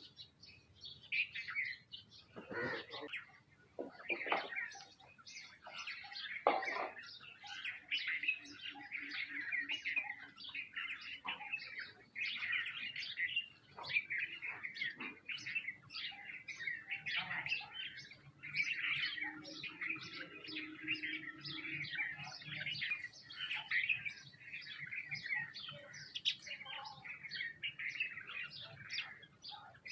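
Many small birds chirping and chattering together without pause, as a flock calling over one another, with a few knocks between about two and seven seconds in.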